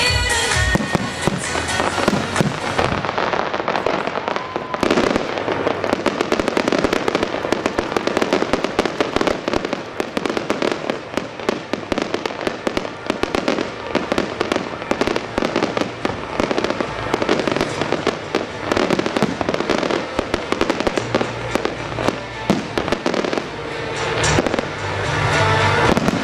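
Fireworks going off in a dense, rapid barrage of sharp bangs and crackles, many a second, over the show's music soundtrack; the music comes through more clearly near the end as the bursts thin out.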